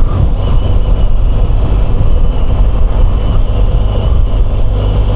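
BMW R1200GS flat-twin engine running steadily while the motorcycle is ridden, a continuous low rumble.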